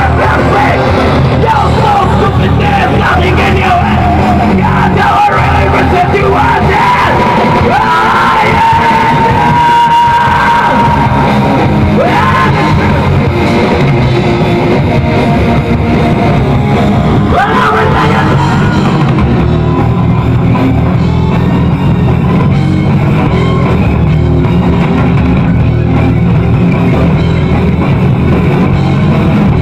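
Live rock band playing loudly in a large hall: electric guitar with yelled, shouted vocals over a heavy rhythm.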